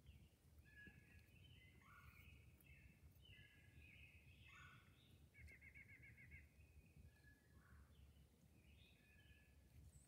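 Faint birdsong in woodland: several birds giving short chirps and calls, with a rapid trill of repeated notes about five seconds in, over a low, steady background rumble.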